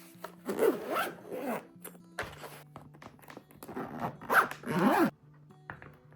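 Two rasping, zip-like rubbing strokes, each about a second long, one about half a second in and one near four seconds in, over soft background music.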